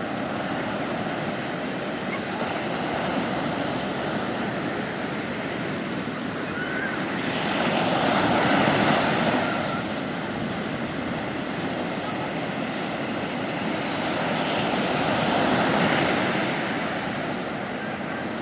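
Sea waves breaking on a beach, a steady wash of surf that swells twice, about midway and again near the end, as waves come in.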